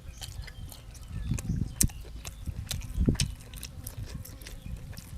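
A person chewing and biting food, with many small wet mouth clicks and two sharper bites about two and three seconds in.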